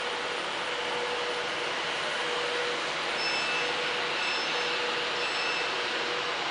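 A train running at a station platform: a steady rush of noise with a faint steady hum. From about halfway through, a short high beep repeats about once a second.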